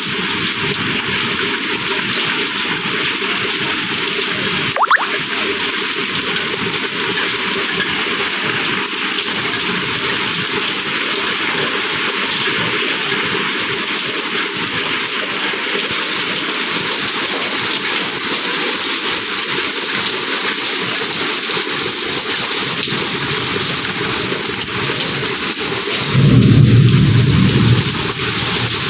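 Heavy rain falling steadily, with a single sharp crack about five seconds in and a low rumble of thunder near the end.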